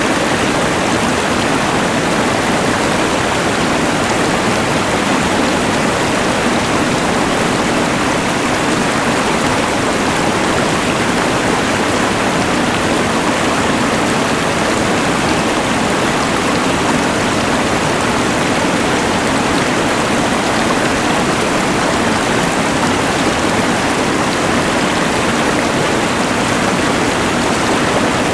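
Rushing mountain river blended with the steady hiss of a LectroFan white noise machine: one loud, even wash of sound with no breaks or changes.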